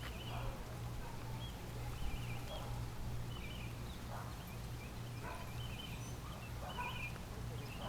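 A dog barking repeatedly, faint, in short bursts about every second: the neighbour's dog barking at the passing dog.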